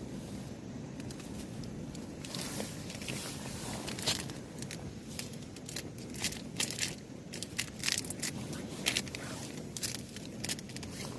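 Irregular crinkling, crackling handling noise, sharp clicks starting about two seconds in, over a steady low rush.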